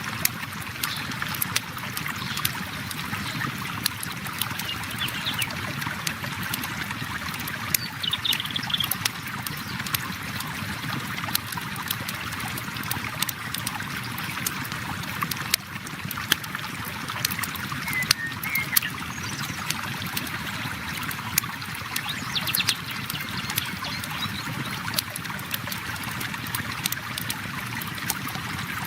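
A river flowing steadily, with a campfire crackling and popping throughout and a few faint high chirps from birds now and then.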